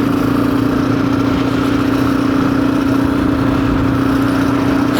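Motorcycle engine running at steady revs while being ridden, its note holding even and unchanging.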